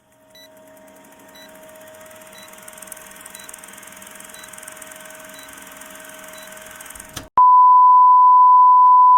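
Electronic sound effect: a steady hum with faint ticks about once a second, growing slowly louder, then a loud, steady single-pitched beep lasting about two seconds that cuts off sharply.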